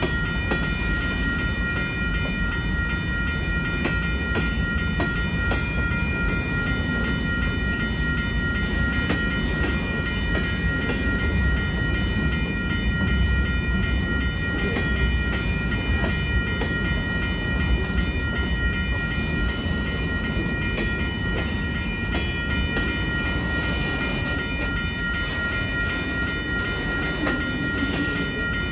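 Freight train of covered hopper cars rolling through a grade crossing: a steady low rumble, with wheels clacking now and then over the crossing. A grade-crossing bell rings steadily over it.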